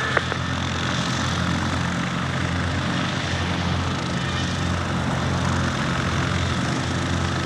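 Cessna 152's four-cylinder Lycoming engine and propeller running steadily, an even drone with no change in power.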